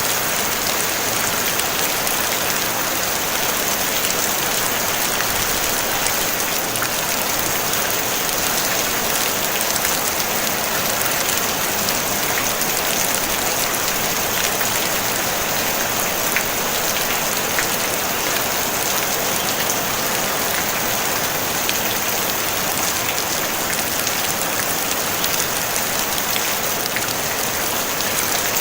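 Steady rain on a tin roof: a dense, even patter with scattered sharper drop ticks and no thunder.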